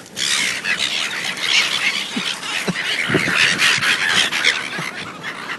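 A flock of seagulls squawking and calling over one another, a loud dense clamour that starts suddenly as they scramble for thrown French fries.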